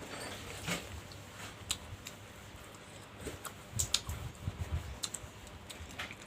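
Close-miked eating sounds: chewing with many sharp, wet mouth clicks and a few soft low thumps about midway.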